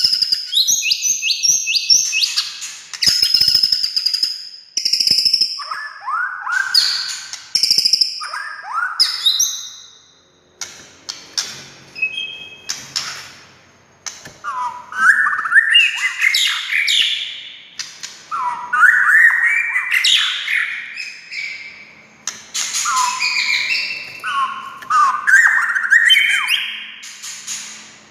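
White-rumped shama (murai batu) singing a loud, varied song of whistled phrases and sharp clicks: high, clear notes in the first third, then after a short pause, lower rapid runs that slide up and down.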